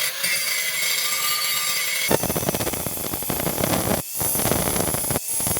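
An electric grinder runs with a high hiss and whine, then from about two seconds in the noise turns rough and full as it bites into the steel. It breaks off briefly twice near the end.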